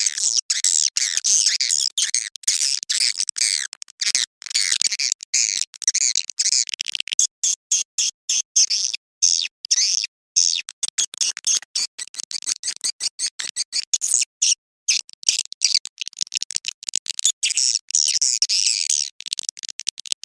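Swiftlets twittering: a dense stream of rapid high chirps in short choppy bursts with brief gaps. It is a swiftlet lure call, the dusk mating ('birahi') call played to draw swiftlets to a nesting house.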